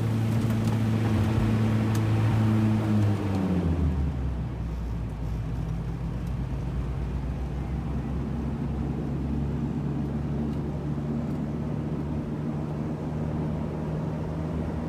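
ATR 72 turboprop engines and propellers droning. The steady tone drops in pitch about three and a half seconds in, then holds at the lower pitch.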